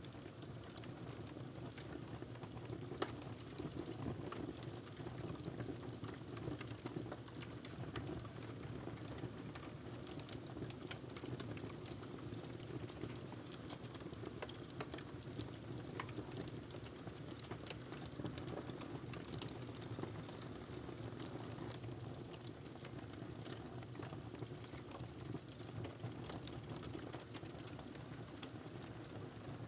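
Wood fire crackling in a fireplace: irregular pops and snaps, one sharper crack about three seconds in, over a steady low rumble.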